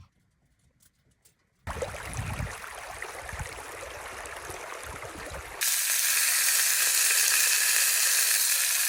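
Food sizzling in a frying pan on a campfire: a steady, loud hiss that starts suddenly about two-thirds of the way through. Before it come a few seconds of quieter rustling noise with low thumps.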